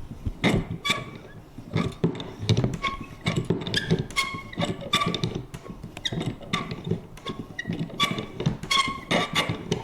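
Vintage paper hole punch worked over and over: irregular clacks about one or two a second, many with a short high creak or squeak from the mechanism.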